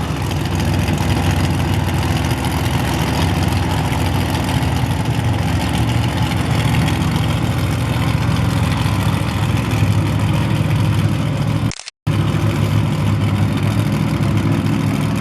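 Large vehicle engine running loudly and steadily, with a momentary cut-out in the sound about twelve seconds in.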